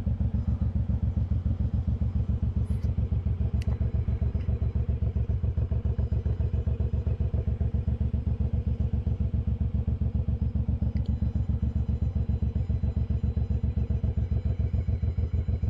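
Suzuki Boulevard M109R's big V-twin engine running at low, steady revs, an even rapid pulsing beat with no revving.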